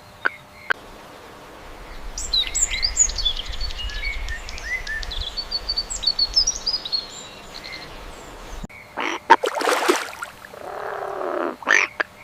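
A run of animal calls. A few sharp, evenly spaced clicks come first, then about six seconds of many high chirps over a low rumble, which cuts off suddenly. Near the end there are rough noisy bursts and a lower drawn-out call.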